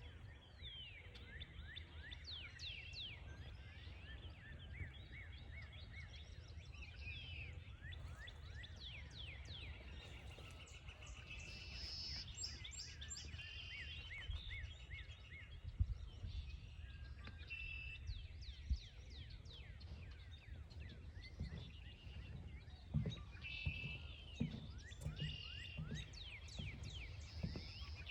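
Many birds calling at once in the woods: dense overlapping short falling chirps and brief trills, over a steady low rumble, with a few soft thumps in the second half.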